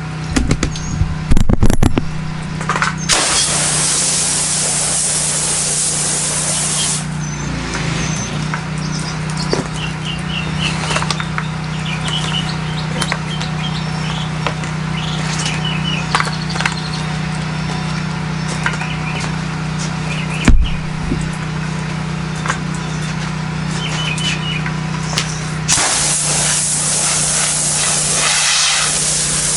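Pressure washer engine running steadily, with the hiss of the spray wand for a few seconds early on and again near the end, rinsing the tile at low pressure. A single sharp knock about two-thirds of the way through.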